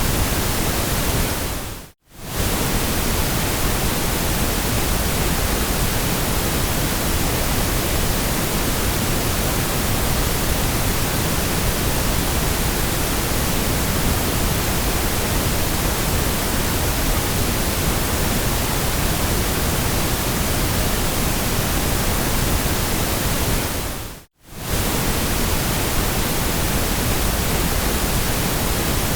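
Steady white noise, an even hiss spread across all pitches, that fades out to silence and straight back in twice, about two seconds in and again about three-quarters of the way through.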